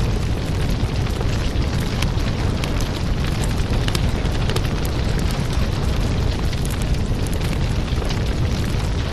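Wood fire burning, with frequent irregular crackles and small pops over a steady low rumble.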